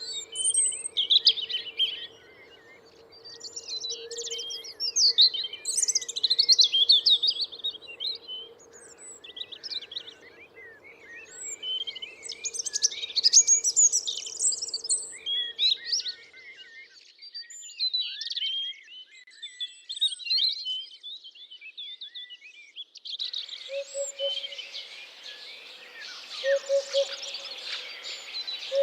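Several birds singing, a dense run of quick chirps and trills. A faint steady hum underneath stops partway through, and near the end a denser background hiss comes in.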